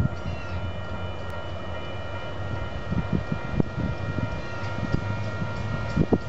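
Diesel freight locomotives approaching from a distance, a low steady rumble. Gusts of wind thump on the microphone, most of them near the end.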